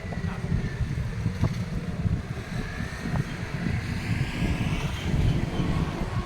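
Alsthom diesel-electric locomotive hauling a train, a steady low rumble, with wind buffeting the microphone.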